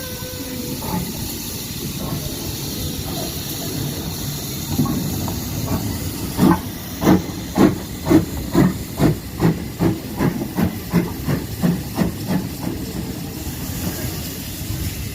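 Steam locomotive hissing, then pulling away: exhaust chuffs begin about six seconds in, roughly two a second and quickening slightly, then fade back into the hiss near the end.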